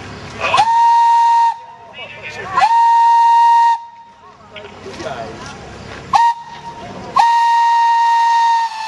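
Steam locomotive whistle blowing four blasts on one steady pitch: two of about a second each, a brief toot, then a longer blast near the end.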